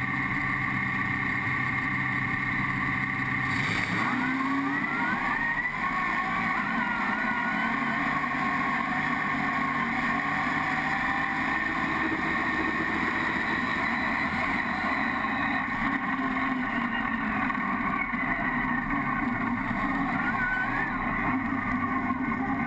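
Drag truck's engine running hard and steadily, with its pitch rising about four seconds in and again near the end.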